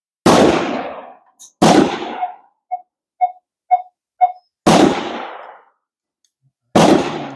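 Four gunshots on a firing range, each a sharp crack with a short echoing tail, the first two about a second and a half apart and the last two about two seconds apart. Between the second and third shot come four short, even-spaced beeps.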